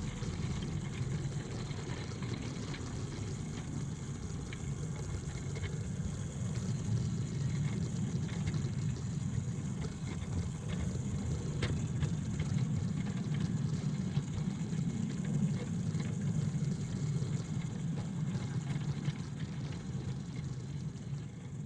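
Ride-on 7¼-inch gauge miniature train running along the track: a steady low rumble of wheels on rails, with a few faint clicks.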